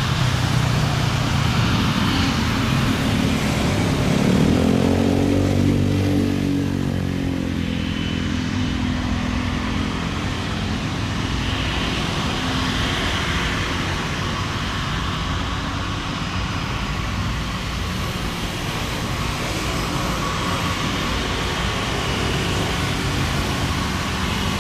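Steady engine noise of passing vehicles, one of them going by close about four to seven seconds in with a rise and fall in pitch.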